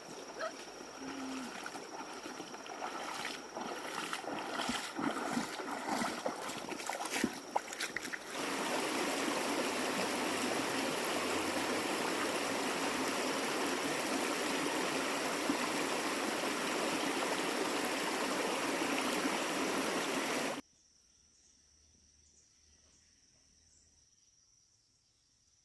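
Rustling and crackling over a steady high whine. About eight seconds in, a steady rush of flowing water takes over. At about twenty seconds it cuts off abruptly, leaving only a faint high insect chirr.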